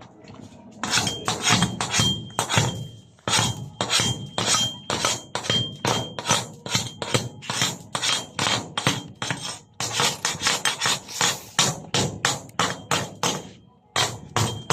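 A rapid series of sharp strikes, several a second, with a thin high ringing tone that comes and goes.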